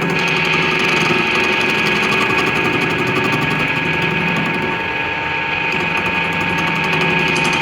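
A machine's motor running steadily, with a constant whine and hum and a slight dip in level about five seconds in.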